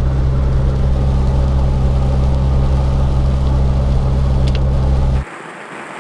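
A loud, steady, low machine-like drone that cuts off abruptly about five seconds in. It gives way to the even hiss of heavy rain.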